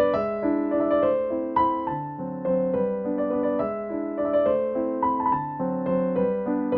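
Background piano music: a gentle melody over chords, notes changing every half second or so.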